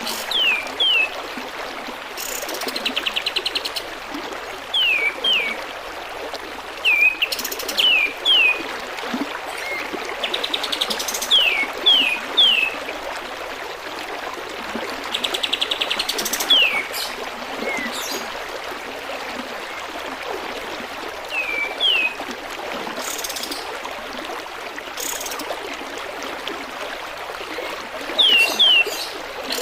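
Kapas tembak bird singing: short falling whistled notes, mostly in twos and threes, with a few fast rattling trills of about a second. The song plays over steady trickling water.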